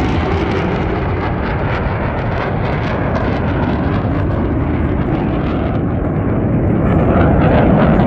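Jet engine noise from a Blue Angels fighter jet flying over. The loud, rumbling noise eases slightly midway, then builds again near the end.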